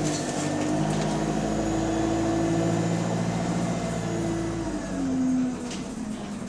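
Bus diesel engine under way, its pitch stepping up and down as it pulls, with the loud blowing of an exhaust leak. The engine note eases off about five and a half seconds in.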